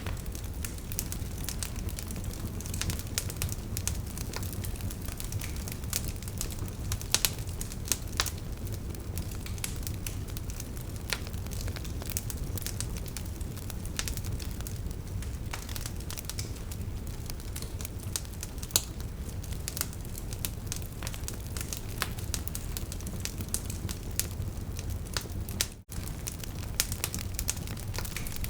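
Wood fire crackling: a steady low rumble of flames with frequent sharp pops and snaps, a few louder than the rest. The sound drops out for an instant near the end.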